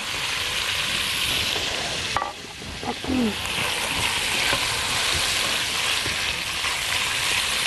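Diced boiled chicken gizzards sizzling in hot oil in a pan as they are tipped in and stirred with a silicone spatula. The steady frying hiss dips briefly about two seconds in, then carries on.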